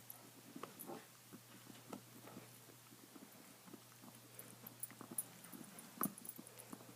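A dog gnawing on a bone: faint, irregular small crunches and clicks of teeth on bone, the sharpest about six seconds in.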